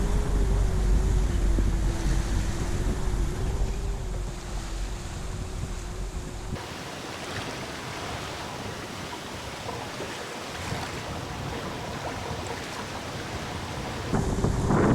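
Wind buffeting the microphone and water rushing past a sailboat under way, with a steady hum over heavy wind rumble at first. About six seconds in the sound changes abruptly to a quieter, even rush of wind and water.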